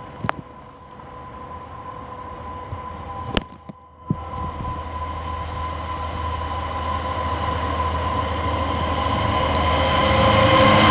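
DB Cargo Class 66 diesel locomotive, an EMD two-stroke engine, heading a freight train and growing steadily louder as it approaches. There are a couple of sharp clicks in the first few seconds.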